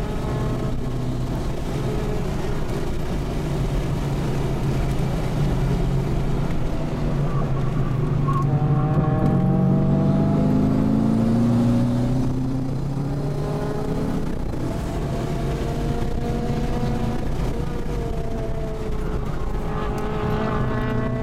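Twin-turbo 6.0 L V8 of a Holden Commodore SS wagon heard from inside the cabin while lapping a race track. The engine note climbs under acceleration about eight seconds in, eases off at about twelve seconds, and builds again near the end, over steady road noise.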